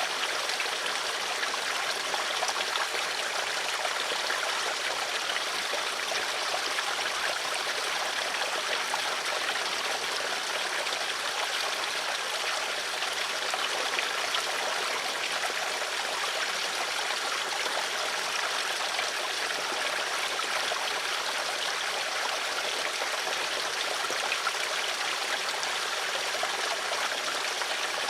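Water flowing steadily, like a stream: an even rushing trickle that holds the same through the whole stretch, with no breaks or surges.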